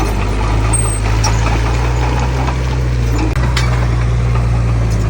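Heavy diesel engine of earthmoving equipment running steadily with a deep, low drone, briefly dipping a little past halfway.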